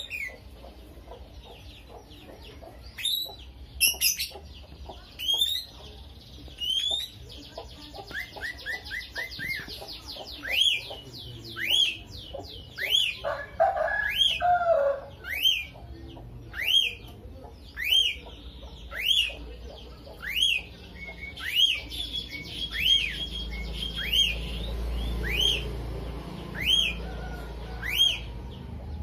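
Lovebird calling: a repeated sharp chirp, each a quick rising-and-falling note a little faster than once a second, broken by a fast run of short notes and a short lower warble.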